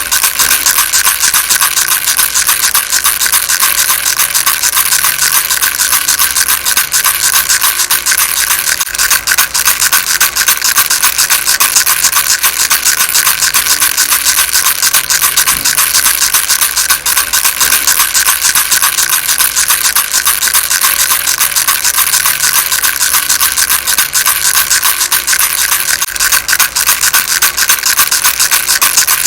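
A rattle shaken without pause: a dense, even stream of fast, bright rattling clicks.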